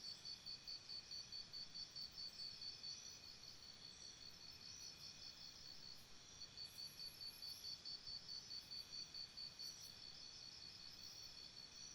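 Insects chirping in a jungle chorus: one pulses rhythmically, about four or five chirps a second, stops for a couple of seconds in the middle, then resumes over a steady high trill from others.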